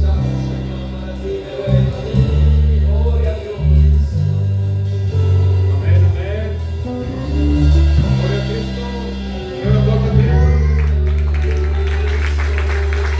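Live Christian worship music: band with bass, guitar and drums playing sustained chords that change every second or two, with some singing.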